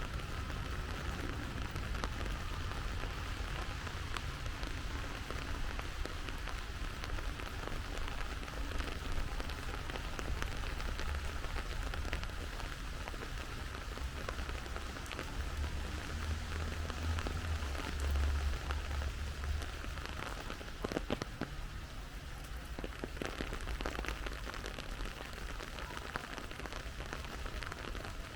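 Steady rain falling, with many separate drop hits close by and a low rumble underneath that swells about halfway through.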